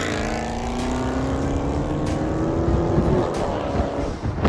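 Car exhaust with the mid muffler deleted, the engine pulling under acceleration with its note climbing slowly and steadily.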